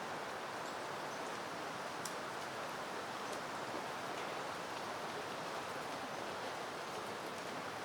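Steady, even rustle of a soft breeze moving through blooming peony plants, with a few faint ticks.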